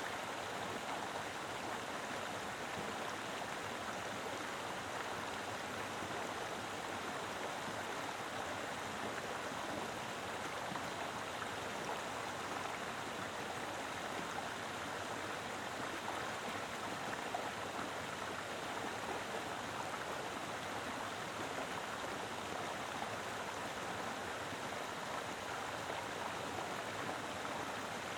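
Mountain river flowing over rocks: a steady, full rush of water with no change throughout.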